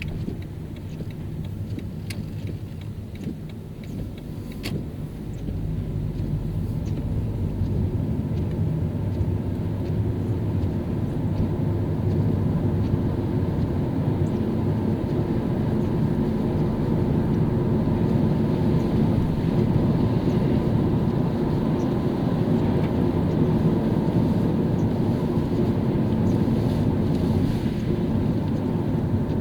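Car driving on a wet city road: steady engine and tyre noise that grows louder about five to twelve seconds in as the car picks up speed, then holds steady. A couple of brief clicks early on.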